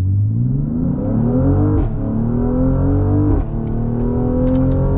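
Mercedes-AMG GLC 43's twin-turbo V6 accelerating at full throttle, its pitch rising through the gears with two quick upshifts, about two and three and a half seconds in, then pulling on nearly level.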